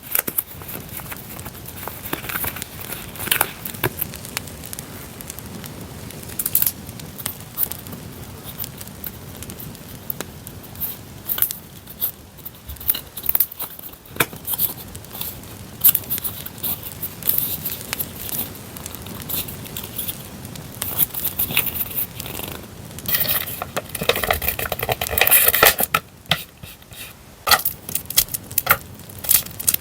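Campfire crackling under paper and packaging being handled, with crinkling and rustling and a louder stretch of crinkling a little before the end.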